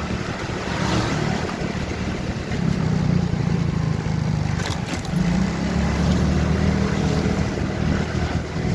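Motorcycle engine running under way over a steady rush of road and wind noise; the engine note gets stronger about two and a half seconds in and again just after five seconds.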